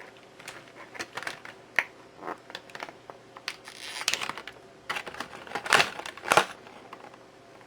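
Toy packaging being handled: irregular crinkling and small clicks, with two louder snaps about six seconds in.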